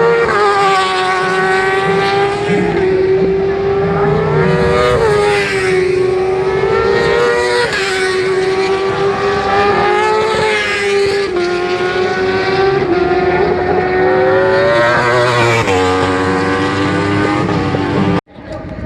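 Inline-four 1000 cc superbike race engines at high revs, the exhaust note climbing and dropping in pitch several times with gear changes and throttle. The sound cuts off abruptly near the end.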